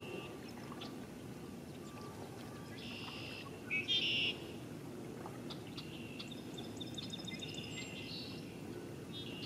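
Songbirds calling from the marsh: several short high calls and trills, the loudest about four seconds in and a run of quick trilled notes near the end, over a steady low background noise.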